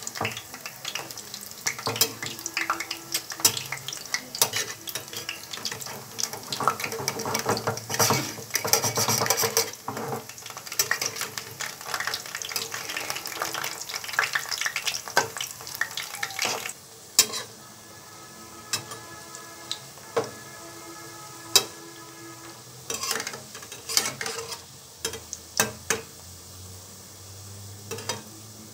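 Pieces of battered food shallow-frying in oil in a nonstick wok, sizzling, while a metal spatula stirs and turns them with scrapes and clicks against the pan. The stirring is busy for about the first half, then thins to occasional sharp taps over a softer sizzle.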